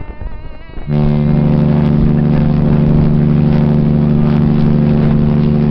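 Explorer of the Seas cruise ship's horn sounding one long, loud, steady blast, starting about a second in.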